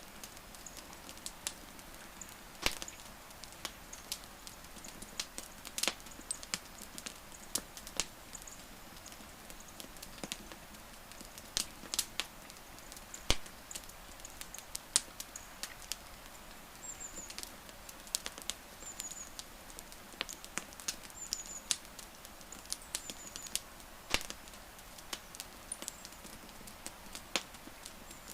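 Wood fire crackling: sharp, irregular pops and snaps over a soft steady hiss, with a few faint high chirps in the background in the second half.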